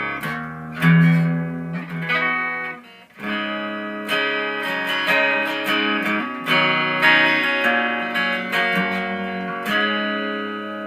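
Electric guitar played through a Danelectro FAB D-3 Metal distortion pedal into a Randall RD20 amp. It plays a heavy bass-line riff in drop D flat tuning, with sustained distorted notes and a short break about three seconds in.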